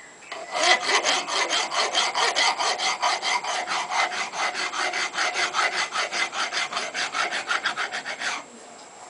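Hand file being stroked quickly over the edges of a steel railroad-rail anvil, about five strokes a second, taking off the burrs left by milling; the filing stops a little before the end.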